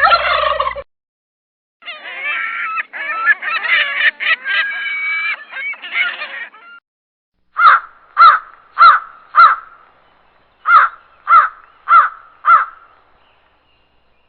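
Birds calling: a short loud call, then a few seconds of overlapping calls, followed by eight loud, evenly spaced calls in two sets of four.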